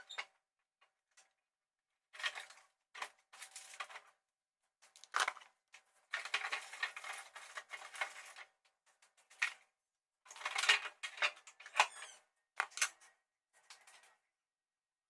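Irregular bursts of clattering and clinking from dishes, containers and refrigerator shelves being handled during fridge cleaning, with short silent gaps between them and the sharpest knocks about two-thirds of the way in.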